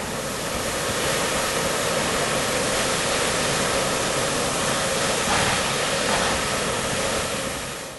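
Steady rushing noise of a moving train, with no distinct wheel clicks, fading out at the very end.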